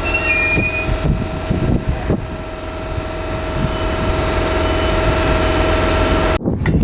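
Class 313 electric multiple unit's steady electrical whine over a low hum, with faint wheel squeal in the first second. Near the end it cuts off suddenly and is replaced by wind buffeting the microphone.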